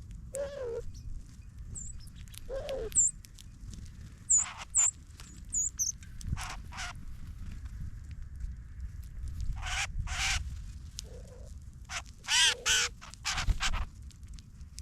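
Wild birds calling: a series of short, harsh, caw-like calls, loudest near the end, with brief high chips of small birds in the first half, over a steady low outdoor rumble.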